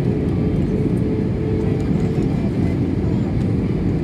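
Steady rumble of an airliner's engines and rushing air heard inside the passenger cabin, with a faint steady hum that fades about halfway through.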